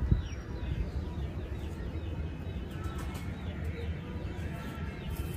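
Birds calling in the background, strings of short falling chirps in two spells, over a low steady rumble.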